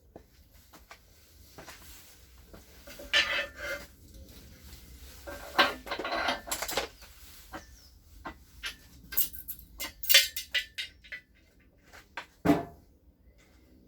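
Metal engine parts and tools being handled on a workbench: irregular clinks, clanks and scraping, with one heavier thud near the end.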